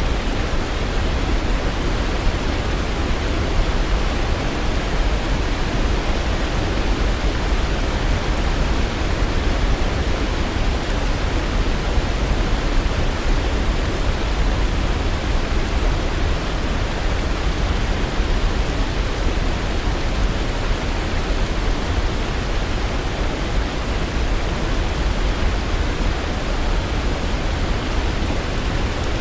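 Waterfall: the steady, unbroken rush of falling water, heaviest in the low end.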